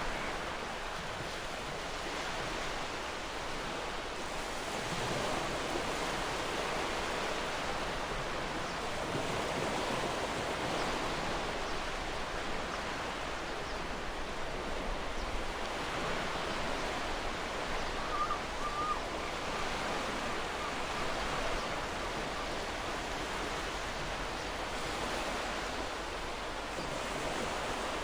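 Gentle ocean waves washing on the shore: a steady surf hiss that swells and eases every few seconds. A brief faint bird call is heard about two-thirds of the way through.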